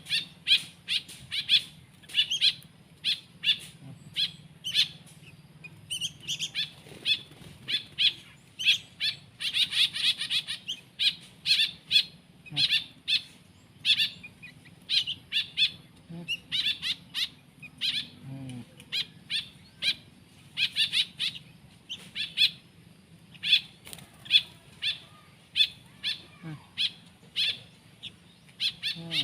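Nestling songbirds chirping, short high calls repeated several times a second without a break, typical of chicks begging for food while being hand-fed.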